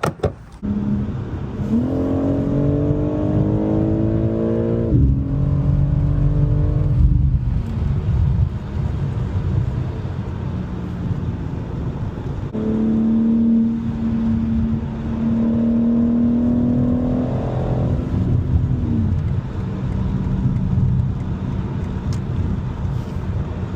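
BMW G82 M4 Competition's S58 twin-turbo straight-six accelerating hard twice. The revs climb for a few seconds and fall at a gear change. Steady low running fills the gap before the second pull, which ends with another drop in revs.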